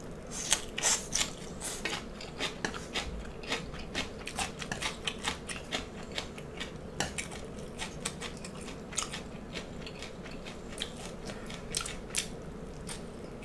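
Chewing and biting of garlic-sautéed ong choy (water spinach) stems, heard as many short, irregular crisp crunches and mouth clicks, with occasional taps of wooden chopsticks against a metal sheet pan.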